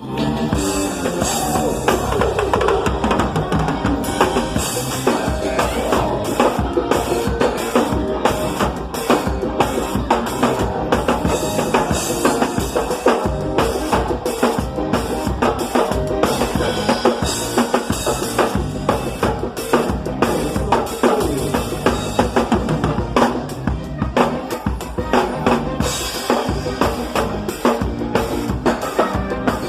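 Live band playing a song at a soundcheck, the drum kit loud in the mix: kick drum and snare with rimshots keep a fast, steady beat over the other instruments.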